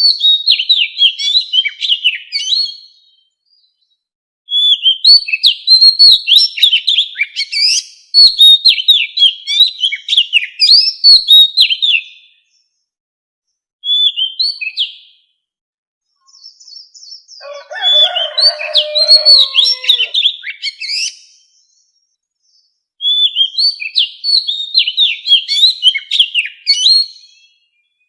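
Oriental magpie-robin singing in phrases of quick, sliding whistled and chirped notes, with short silent pauses between phrases. In the middle a lower, rougher call runs under the song for about three seconds.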